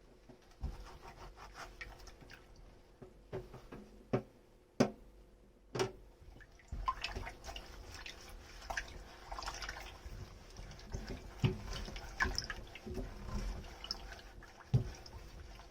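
Hand dishwashing at a kitchen sink: a few sharp knocks and clinks of dishes being handled, then from about seven seconds in water splashing and dripping with many small clatters.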